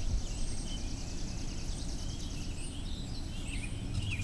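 Outdoor ambience: birds chirping in short calls, with a high, rapid trill in the first couple of seconds, over a steady low rumble of wind on the microphone.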